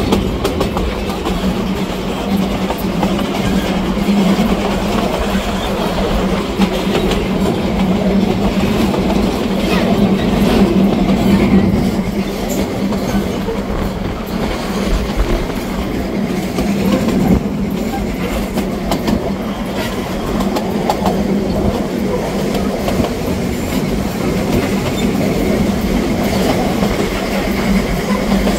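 Moving passenger train, heard from an open-sided carriage: wheels clattering over the rails and the carriage rattling and jolting, with a steady low drone underneath.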